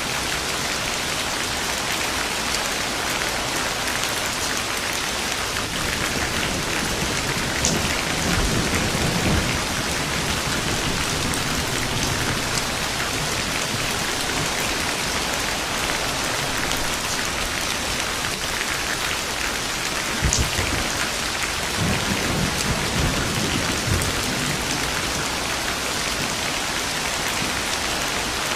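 Steady heavy rain with thunder: a crack and low rumble about eight seconds in, and a second crack followed by a longer rolling rumble about twenty seconds in.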